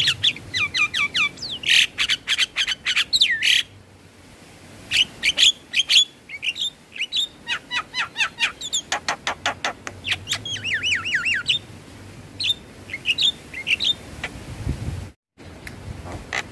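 Javan myna (jalak kebo) song: fast runs of sharp clicks, chatter and looping whistled notes. The song pauses briefly about four seconds in and cuts out for a moment near the end.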